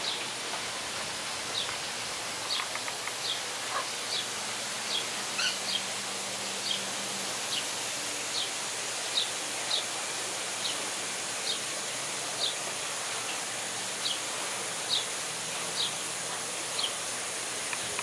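A small bird chirping over and over, short high chirps roughly once a second, over a steady outdoor hiss.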